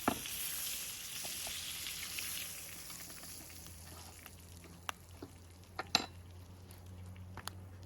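Lamb chops sizzling in a cast iron skillet over a wood fire. The steady hiss fades over the first few seconds, and a few sharp clicks come about five and six seconds in and again near the end.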